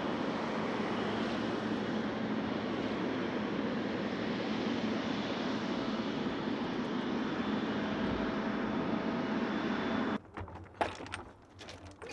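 Steady roar of a jet airliner's engines as it passes. The roar cuts off suddenly about ten seconds in, leaving a few faint clicks and knocks.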